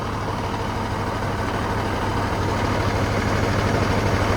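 Diesel engine of an FMTV military truck running steadily, getting gradually a little louder.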